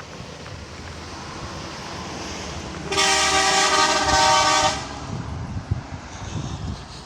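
A vehicle horn sounds one long steady blast of nearly two seconds, starting about three seconds in, over the rumble of passing road traffic.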